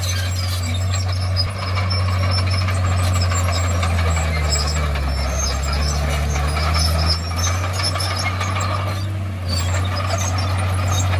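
Bulldozer's diesel engine running steadily under work, a deep drone whose pitch shifts briefly about four to seven seconds in as the load changes.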